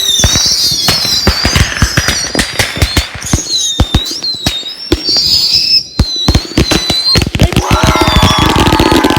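Fireworks and firecrackers going off in a rapid, dense string of sharp bangs, with high whistling fireworks gliding up and down over them. About three-quarters of the way through, music comes in while the crackling keeps going.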